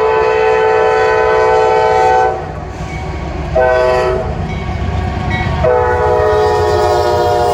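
Norfolk Southern freight locomotive's air horn sounding a chord of several notes: a long blast that stops about two seconds in, a short blast, then another long blast held on. A steady low rumble of the train runs underneath.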